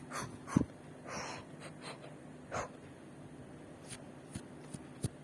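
Scattered handling clicks and taps on a mobile phone, with a few short breathy puffs between them.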